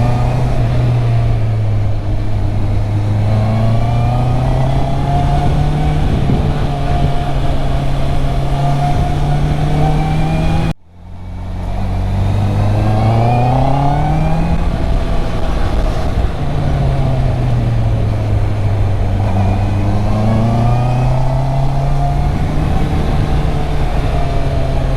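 Stock Honda CB650R inline-four engine under riding, its pitch rising and falling again and again as the bike accelerates and rolls off, over a steady rush of wind noise. The sound cuts out briefly about eleven seconds in, then comes back.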